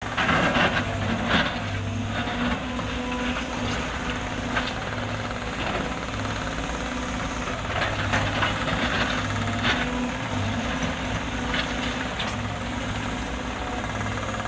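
Caterpillar excavator's diesel engine running steadily, with scattered scrapes and clunks as the machine breaks up an asphalt road surface.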